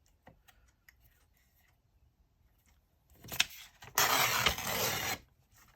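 Paper being torn by hand: a few faint taps, then a short rip about three seconds in and a longer, louder tearing rustle lasting about a second, giving the sheet a rough torn edge.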